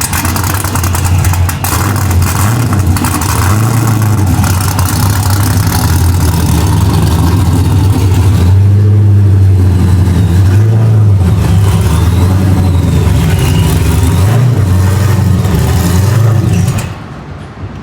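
Car engine running loud and close, its revs rising and falling repeatedly, then cutting off abruptly near the end.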